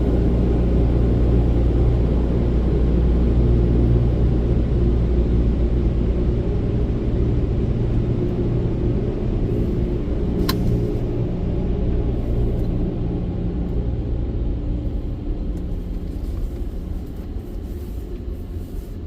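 Low steady rumble of a car moving slowly, with a single sharp click about ten seconds in; the rumble eases off near the end.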